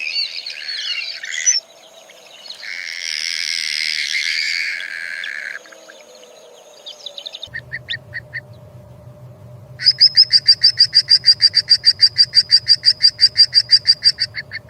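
Birds calling: a burst of chattering calls, then a hoarse squealing call lasting about three seconds, a few short notes, and finally a fast even run of sharp repeated notes, about five a second, over the last few seconds.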